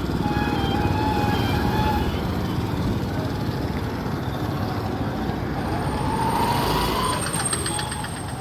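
Steady low rumble of vehicle and road noise while riding along, with wind on the microphone; a few faint tones sound over it, and a whine rises near the end.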